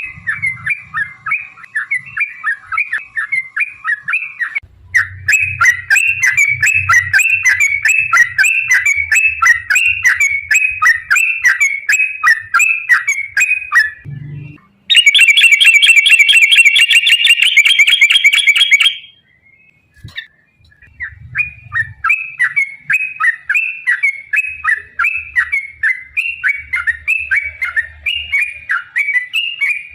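Yellow-vented bulbul (trucukan) singing long, fast chattering runs of notes, in stretches that break off abruptly. About halfway a louder, denser, harsher run plays for a few seconds, followed by a brief near-silent gap before the chatter resumes.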